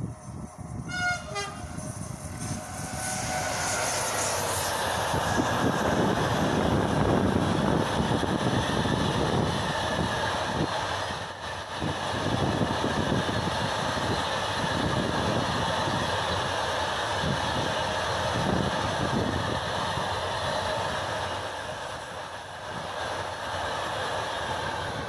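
A freight train of enclosed double-deck car-transporter wagons rolling past at speed, its wheels rumbling and clattering steadily on the rails. A short locomotive horn sounds about a second in as the train approaches.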